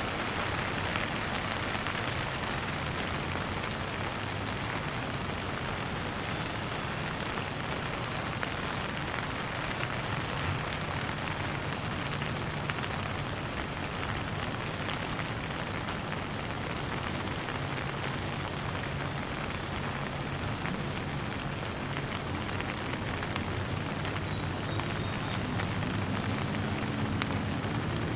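Steady rain falling and pattering on surfaces, an even hiss with fine drop ticks. A faint low hum sits under it, rising a little near the end.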